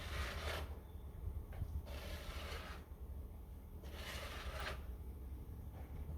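Snow shovel scraping through snow in three strokes about two seconds apart, over a steady low rumble.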